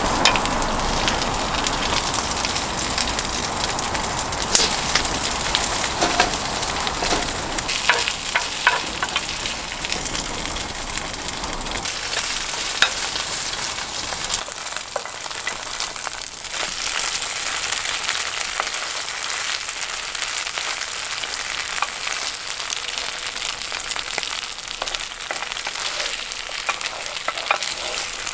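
Food frying in hot oil in a pan: a steady sizzle with many small crackles and pops. A low rumble runs under it and drops away about twelve seconds in.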